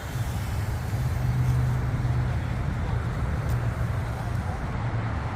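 A car engine idling: a steady low rumble with a faint held hum.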